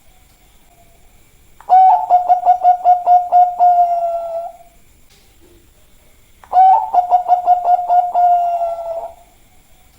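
Zebra dove (perkutut, Bangkok line) cooing its song twice, each phrase a quick run of staccato notes over a steady pitch that then holds and trails off, about three seconds long, with a pause of about two seconds between phrases.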